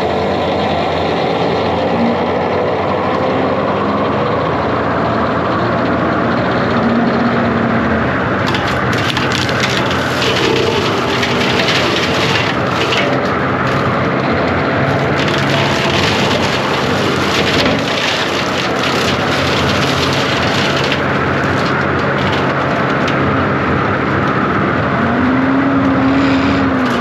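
John Deere 333G compact track loader's diesel engine running steadily under load. From about eight seconds in, and again near the end, wood and brush crack, snap and splinter as the machine clears overgrowth.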